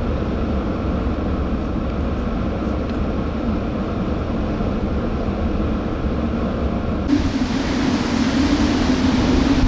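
Steady low rumble of a vehicle driving through a windstorm. About seven seconds in it switches abruptly to a louder hissing rush of wind on the microphone with crashing surf.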